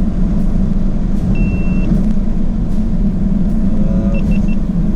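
Steady low drone of the supercharged V8 Jaguar F-Type and its road noise, heard from inside the cabin while driving. A single electronic beep sounds about a second and a half in, and three short beeps come near the end.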